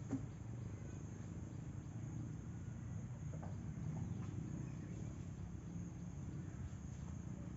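Insects, likely crickets, chirring steadily in a thin high band over a low, even background rumble, with a few faint ticks.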